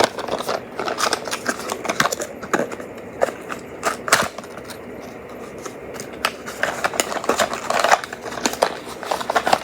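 Hands handling a small plastic toy: irregular clicks, crinkles and scrapes.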